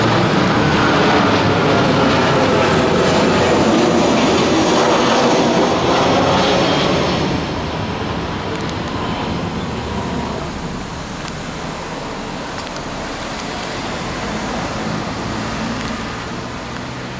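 US military aircraft passing low overhead, a loud roar with a falling pitch that eases off about seven seconds in and carries on more quietly as it moves away.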